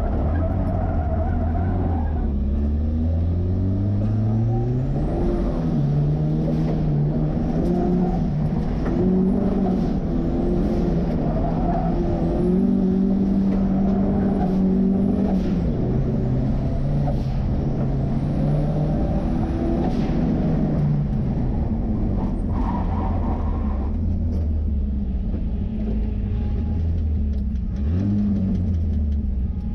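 Ford 2.3-litre turbocharged four-cylinder in a 1963 Volvo Amazon, driven hard on an autocross course: the engine revs rise and fall repeatedly with throttle and gear changes, with thin high whistling glides on the revs. About two-thirds of the way through it settles to a lower, steady running.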